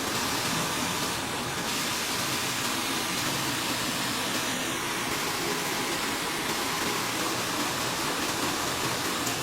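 Computerised sock-knitting machines running, giving a steady, hissy mechanical din.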